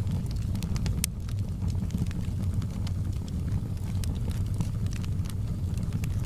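Fire burning in a fireplace, crackling with irregular sharp snaps over a steady low rumble.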